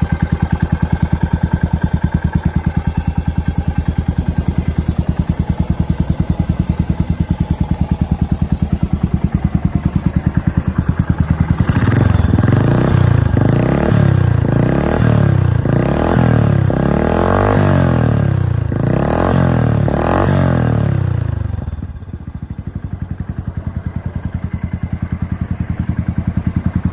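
1997 Yamaha SR400's air-cooled single-cylinder four-stroke engine idling steadily, then revved several times in quick succession, each rev rising and falling. It then drops back to a quieter idle.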